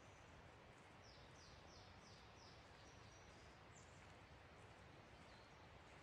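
Near silence with a faint bird song: a run of about five quick down-slurred notes, roughly three a second, starting about a second in, then a couple of single high chirps, over a steady faint outdoor hiss.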